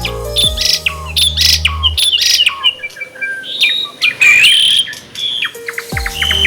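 Songbirds chirping and singing in quick runs of sharp notes, short trills and whistled slurs, over a backing track with deep held bass tones that drop out for a few seconds in the middle and return near the end.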